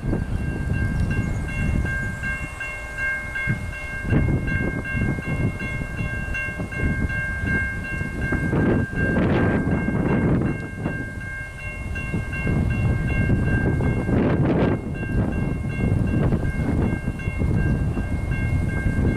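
The Z1 locomotive and its train running on the rails: a heavy rumble that swells and eases several times. Over it runs a steady high tone of several notes that breaks off briefly a few times.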